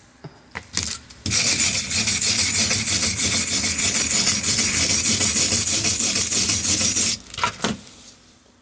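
Steel wire brush scrubbed hard back and forth over a fresh flux-core weld bead, a loud rasping scrape for about six seconds, cleaning off the slag the flux leaves behind. A few light knocks of metal come just before and just after the brushing.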